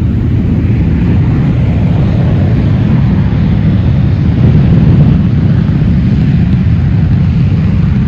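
Boeing 737-200's Pratt & Whitney JT8D turbofan engines at takeoff power, a loud, steady, deep rumble.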